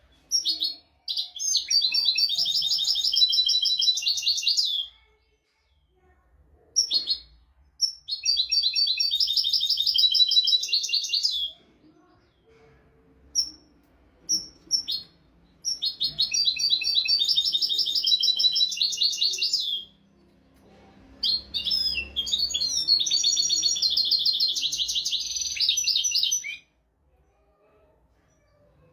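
European goldfinch singing: four long phrases of fast, high twittering trills, each a few seconds long, with short pauses and a few single call notes between them.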